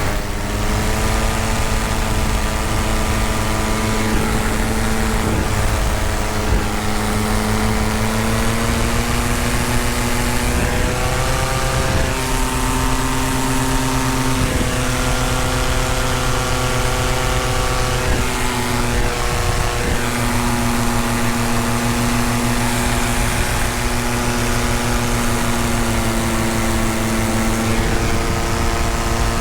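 Tandem paramotor's engine and propeller running steadily in flight, the pitch stepping up and down several times as the throttle is adjusted, over a constant rush of air.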